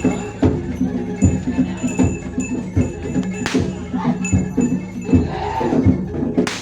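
Live bantengan accompaniment music from a Javanese percussion ensemble: drums struck in a steady beat about twice a second over ringing, sustained metal gong tones.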